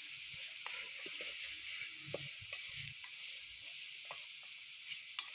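Chopped chicken and vegetables frying in an aluminium pot, giving a steady quiet sizzle, with scattered light scrapes and taps of a wooden spatula stirring them.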